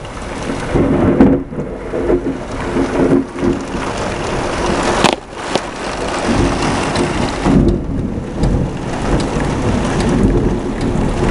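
Thunder rumbling on after a lightning bolt, over steady heavy rain, swelling and easing in waves, with one brief sharp crack about five seconds in.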